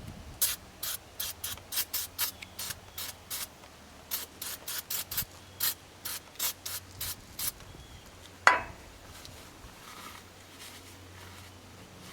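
A run of quick, short scraping strokes, about three a second for some seven seconds, then a single sharp clink.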